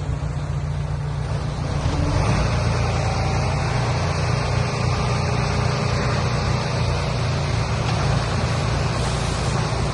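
Heavy-equipment engine running steadily with a low rumble, joined about two seconds in by a louder rushing noise.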